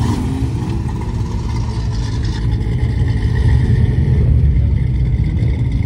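Low, steady rumble of a car engine running, swelling slightly about three seconds in.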